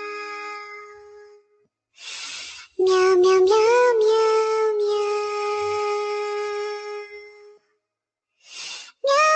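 A high, child-like synthetic singing voice holding long, drawn-out notes. A note fades out in the first second and a half. A breathy onset follows, then a long held note from about three to seven and a half seconds with a small wobble in pitch near its start. Another note begins near the end.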